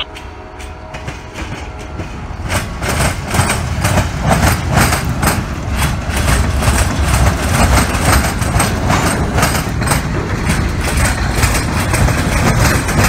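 Freight cars rolling slowly past, their steel wheels clacking over the rail joints in a busy run of clicks that grows louder about two and a half seconds in. Under it runs the low rumble of the shoving EMD SD40-3 diesel locomotive.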